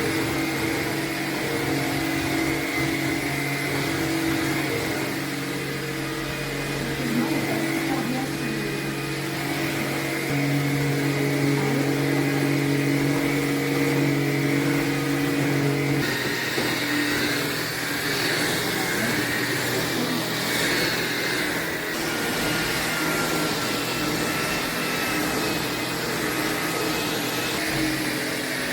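Tineco A30S cordless stick vacuum running, a steady motor hum whose pitch shifts about 10 seconds in and again about 16 seconds in, when a higher whine comes in, as it moves between its power modes (eco, auto, maximum).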